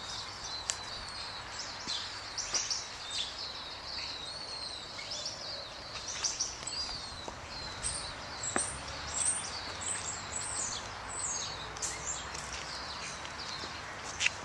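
Small birds chirping in many short, quick calls, busiest in the middle stretch, over a steady low background of outdoor noise.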